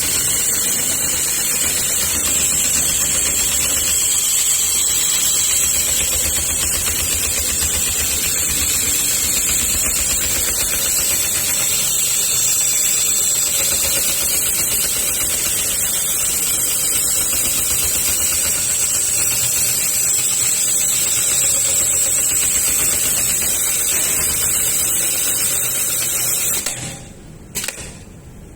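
Industrial mop stitching machine running at speed: a fast, even mechanical chatter under a steady high hiss. It stops about 27 seconds in, then gives one short burst.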